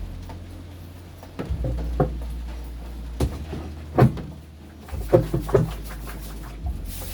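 Samsung Wobble top-loading washing machine running, its motor humming in short on-off bursts as it agitates, with several knocks and clatters.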